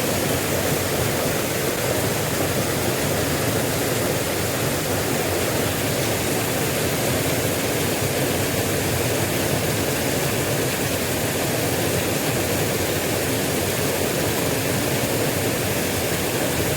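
Steady noise of a small river's water flowing.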